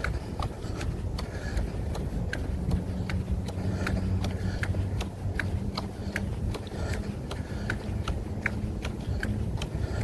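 Jogging footsteps, short regular impacts at about three steps a second, over a low steady rumble.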